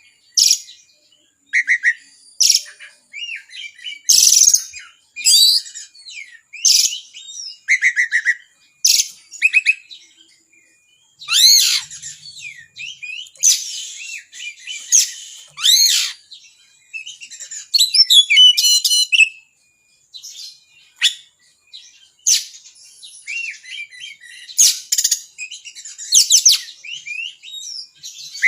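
Oriental magpie-robin (kacer) singing loudly, a steady run of short, varied phrases of sharp whistles, sweeping notes and fast trills, about one a second, with a couple of brief pauses.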